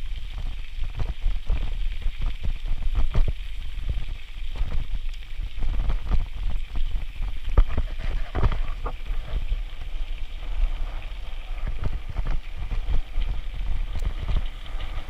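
Wind rumbling on the microphone while riding a bicycle, with frequent short knocks and rattles from the bike going over the path.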